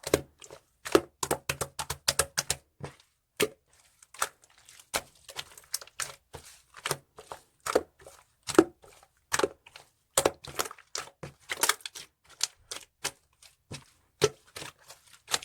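Slime being pressed, stretched and poked by hand, giving a run of irregular sharp clicks and pops.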